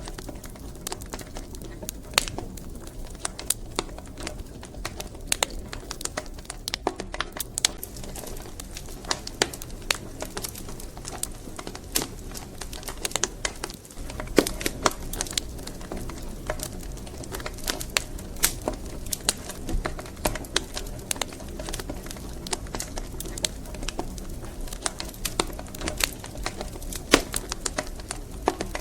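Wood fire crackling in a fireplace: frequent irregular sharp pops and snaps over a low, steady rumble of burning logs.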